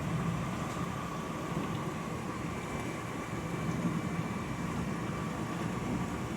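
A household appliance running with a steady hum and a faint, even whine over it.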